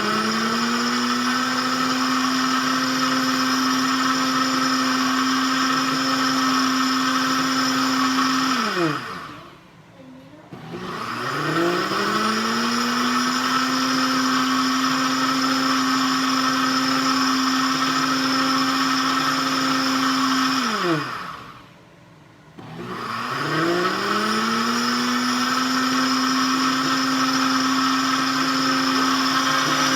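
Instant Ace Nova blender running its automatic clean cycle on hot soapy water. The motor spins up, holds a steady pitch for about nine seconds, winds down into a brief pause, and starts again. The pauses come about ten and twenty-two seconds in, giving three runs in all.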